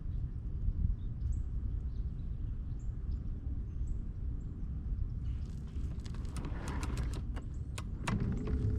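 Steady low rumble with faint bird chirps, then a run of sharp clicks and knocks from about five seconds in, and a steady hum that starts near the end.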